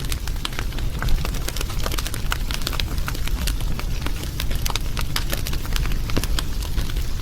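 Fire crackling: many sharp pops and snaps, several a second at irregular times, over a steady low rumble.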